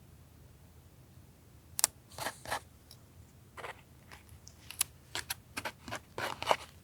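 Paper being handled for a journal collage: scattered short crisp rustles and taps, starting about two seconds in and coming closer together near the end.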